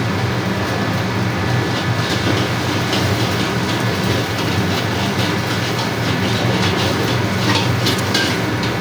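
Wok stir-frying: a metal spatula scrapes and clatters repeatedly against the wok over a steady low hum. The clattering comes thickest from about two seconds in until near the end.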